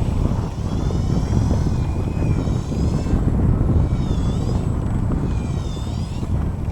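Wind buffeting the microphone on a small boat at sea, a loud steady low rumble. Faint high warbling glides recur about once a second in the second half.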